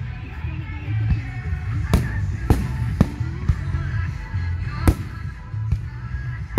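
Aerial fireworks shells bursting in sharp bangs, several of them, clearest about two, two and a half, three and five seconds in, over background music.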